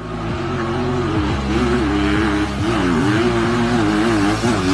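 Dirt bike engine revving under load on a hill climb, its pitch rising and falling repeatedly as the throttle is worked.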